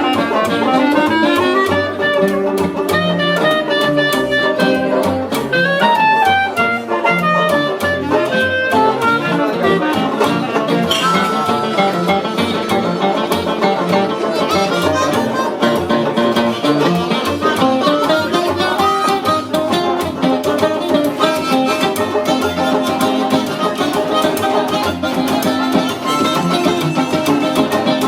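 Live band playing an instrumental break between verses, a melodic lead line over a strummed guitar backing.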